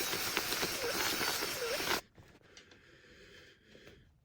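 Power drill boring out a hole in a plastic part, a dense noisy cutting sound that stops abruptly about two seconds in.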